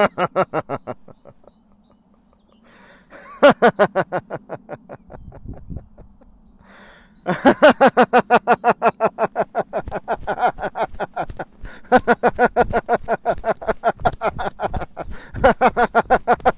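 A man doing tractor laughter, a laughter-yoga exercise: rapid staccato 'ha-ha-ha' pulses at about five a second, imitating a tractor engine chugging. A short burst comes at the start and another about three seconds in. From about seven seconds in it runs on steadily.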